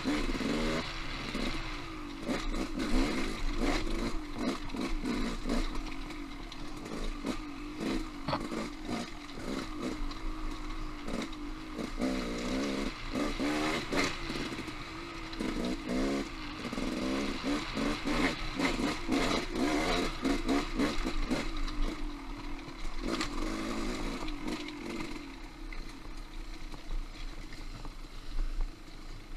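Off-road motorcycle engine revving up and down repeatedly on singletrack, with frequent knocks and clatter.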